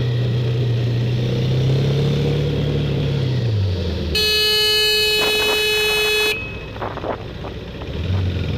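A vehicle's engine drones and drops in pitch as the vehicle slows, then a horn sounds in one steady blast of about two seconds, a warning at a driver cutting in. A few short clicks follow, and the engine drone picks up again near the end.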